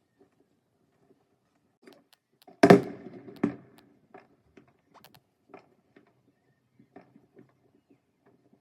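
Fireworks exploding: a sharp loud bang, then a second bang under a second later, followed by scattered faint pops and crackles.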